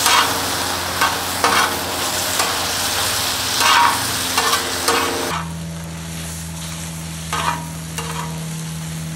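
Stir fry with sauce sizzling in a wok over a wood fire, as a utensil scrapes and stirs through the food now and then. About five seconds in the sizzle drops quieter.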